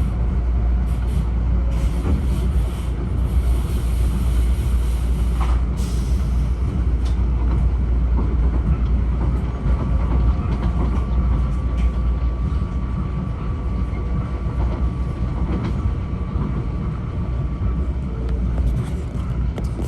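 M7A electric multiple-unit train running along the track: a steady low rumble of wheels and running gear. A thin steady tone joins for several seconds in the middle.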